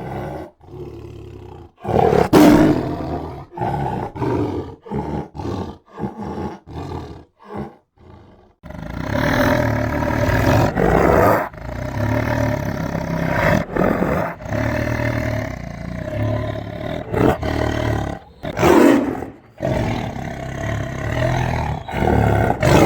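Tiger roaring and growling. A loud roar comes about two seconds in, followed by a run of short growls, then a long, nearly continuous growl with brief breaks, and another loud roar near the end.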